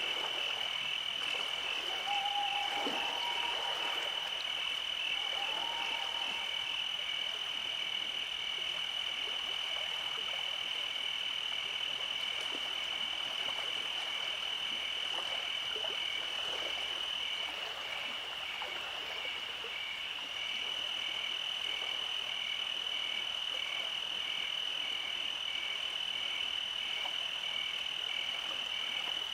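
Night chorus of calling frogs: a steady high trill with a regular pulsing just beneath it. Two short lower calls come a few seconds in.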